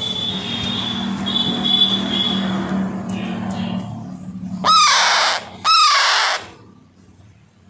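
Baby Alexandrine parakeet giving two loud, harsh squawks about a second apart, after a few seconds of steady hissing noise with a faint high whistle.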